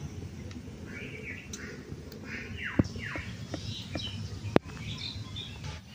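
Birds chirping and calling, including a few quick downward-sweeping calls near the middle, over a low steady background. Two sharp clicks stand out, about three seconds in and again near four and a half seconds.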